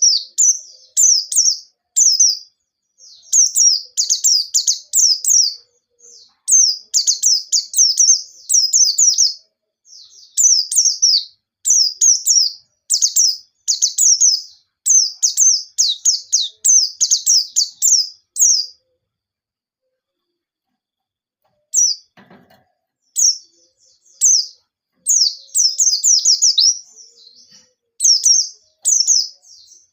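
White-eye (pleci) singing loudly in rapid bursts of high, quick chirping phrases. The song breaks off for about three seconds past the middle, with a brief soft low knock before it starts again.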